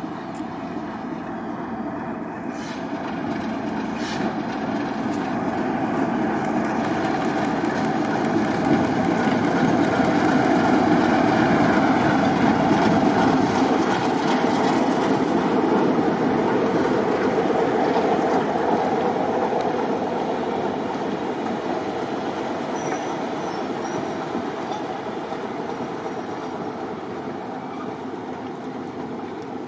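Diesel-hauled train passing on the rails, its wheels rumbling and clattering. It grows steadily louder to a peak about halfway through, then fades away.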